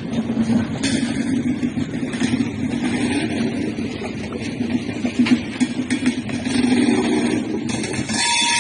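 Steady rumbling vehicle noise with a few sharp knocks; near the end a thin high tone and brighter hiss come in.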